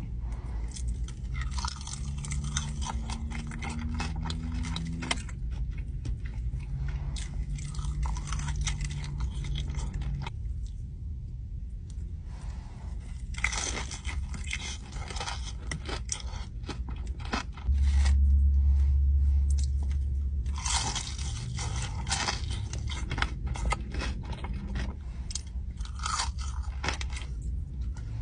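Close-up crunching and chewing of crispy fried chicken wings, with sharp bites and mouth noises throughout and heavier crunching bursts at two points. A loud low rumble lasts about three seconds past the middle.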